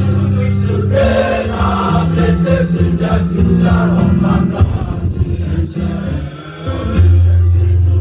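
A school anthem sung by a group of voices, over low held accompaniment notes that move to a new pitch every second or so.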